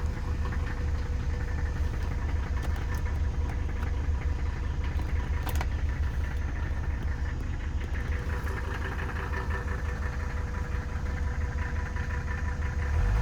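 Mercedes-Benz OM617 five-cylinder turbo diesel of a 1984 300D idling steadily just after starting, running evenly and sounding very healthy.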